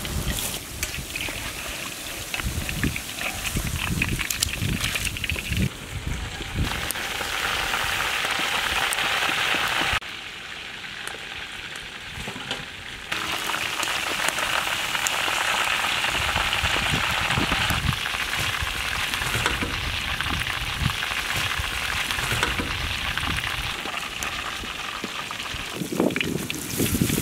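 Battered chicken pieces deep-frying in hot vegetable oil: a steady sizzle with crackling. It drops in level for about three seconds near the middle, then comes back as loud.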